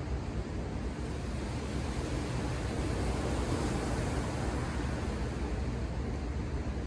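Ocean surf washing ashore, with one wave swelling and fading about halfway through over a steady low rumble.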